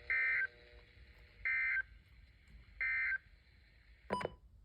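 EAS/SAME end-of-message data bursts from a NOAA Weather Radio broadcast: three short, identical warbling digital tone bursts about a second and a half apart, marking the end of the alert, followed by a brief radio crackle near the end.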